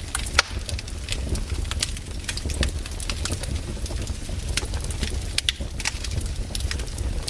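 Wood campfire crackling: irregular sharp pops and snaps of burning wood over a low, steady rumble.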